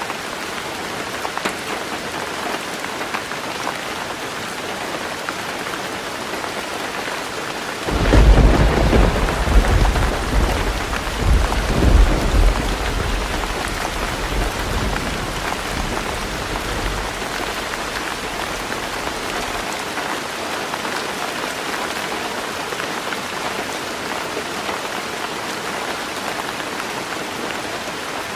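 Heavy rain falling steadily on a roof. About a third of the way in, a clap of thunder breaks in with a deep rumble that swells again a few seconds later, then fades out over roughly ten seconds.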